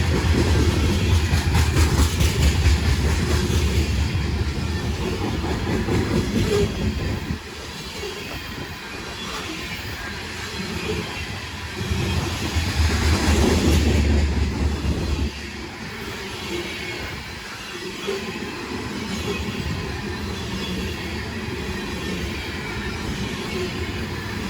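Freight train passing on CSX track: low diesel locomotive rumble and steel wheels rolling and clattering on the rails, with some wheel squeal. The rumble is loud for the first seven seconds and again around twelve to fifteen seconds in. Between and after those stretches there is a quieter, steady rolling noise.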